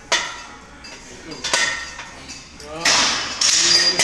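Barbell weight plates clanking as a heavy squat is worked: several sharp metal clanks, the later ones louder and left ringing.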